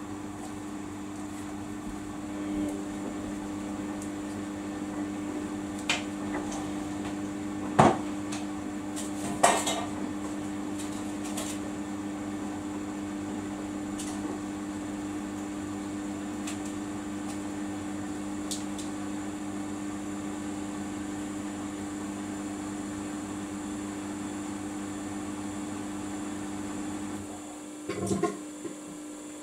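Samsung washing machine running its spin with a steady hum. Several sharp clunks from the drum, the loudest about eight and nine and a half seconds in. Near the end the low rumble drops away and a short rattle of knocks follows.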